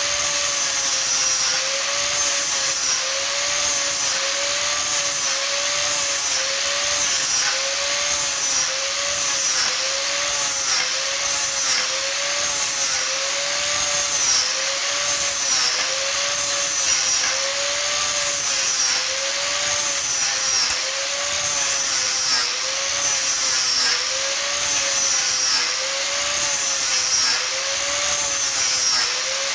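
A power tool working wood runs steadily, its whine dipping and recovering in pitch in a regular rhythm, about one and a half times a second, as if it is being pushed through the wood in strokes.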